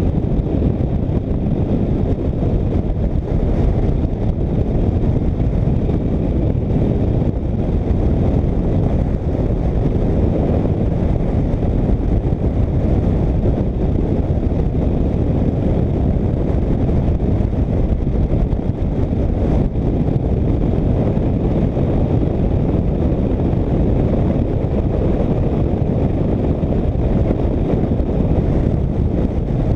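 Motorcycle riding at a steady speed: a constant low rush of wind buffeting on the microphone over the engine and road noise, with no change throughout.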